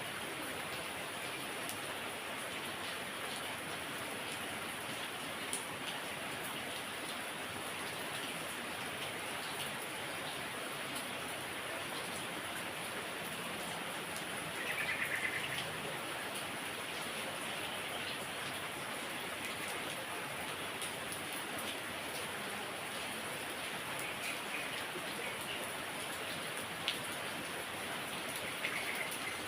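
Heavy rain falling steadily, with a few sharp single drips standing out. About halfway a bird calls briefly over the rain, with fainter calls near the end.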